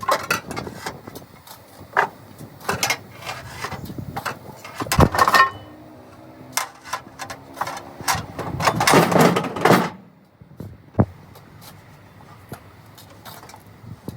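Irregular knocks and clanks of workshop work, with a sharp hit about five seconds in, a brief hum just after it, and a louder two-second rush of noise later on.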